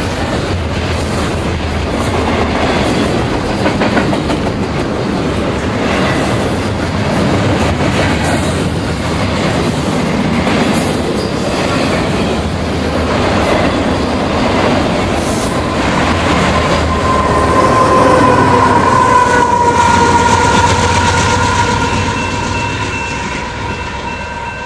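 Freight train of double-stack container cars and autorack cars rolling past close by, its wheels clicking over the rail joints in a steady rumble. From about two-thirds of the way in, a long steady high tone with overtones rises over the rumble and holds to the end.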